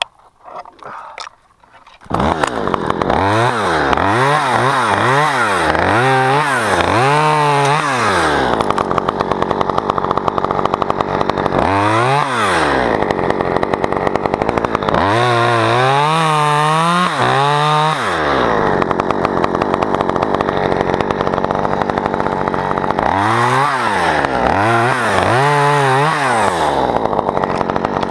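Two-stroke chainsaw comes in loud about two seconds in, then is revved up and down over and over. Between the blips it is held at full throttle for several seconds at a time.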